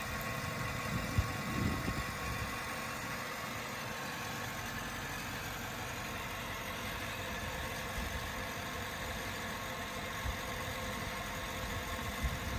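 1995 Chevrolet Impala SS's 5.7-litre LT1 V8 idling steadily, with a few brief low thumps in the first couple of seconds.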